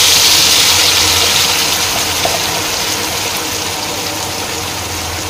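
Wet blended chili-and-spice paste sizzling in hot oil in a wok, a loud hiss that is strongest at first and slowly dies down.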